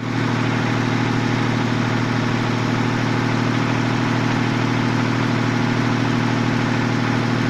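Toyota 7M-GE 3.0-litre inline-six, just started and idling steadily. The knock it has developed is barely audible at this point.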